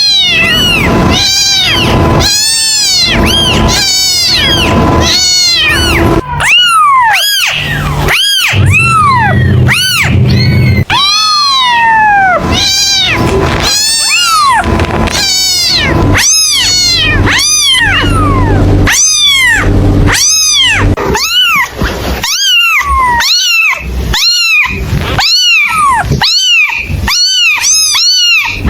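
Kittens meowing over and over, short rising-and-falling meows about two a second, with a steady low hum underneath in places.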